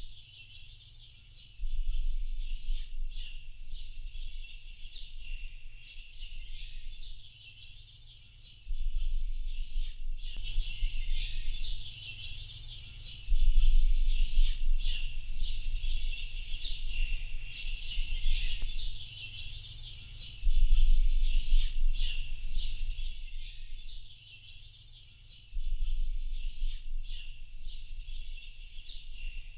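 A dense chorus of many small birds chirping and twittering without a break. Under it a low rumble comes and goes in stretches of a few seconds, each starting abruptly.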